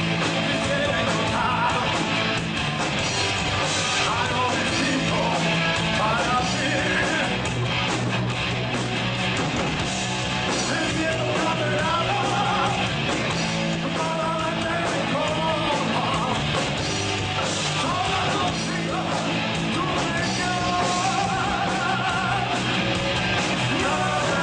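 Rock band playing a song: a singer's voice over guitar, sustained bass notes and drums, continuous and at a steady level.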